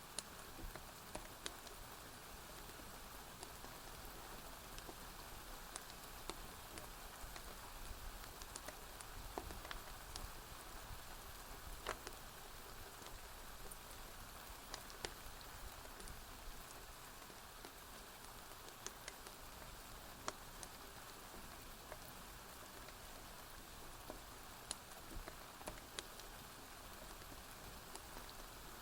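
Steady, gentle rain falling, with scattered sharp clicks and pops through it.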